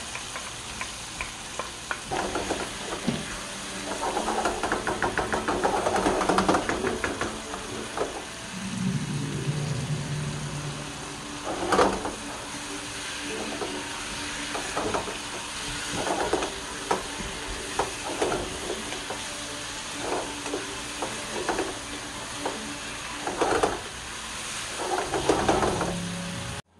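Chicken pieces in soy and tomato sauce sizzling in a wok while a wooden spatula stirs them, scraping and knocking against the pan. There is a quick run of fast stirring strokes early on, then slower separate scrapes.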